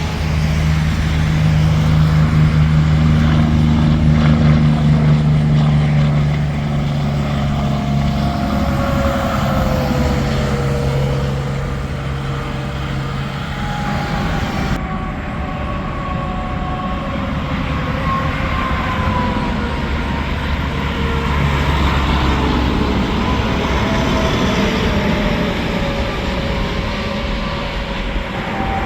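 Semi-trucks and traffic passing on an interstate highway: a heavy diesel engine drone, loudest in the first six seconds, over steady tyre and road noise, with tyre whine sliding down in pitch as vehicles go by.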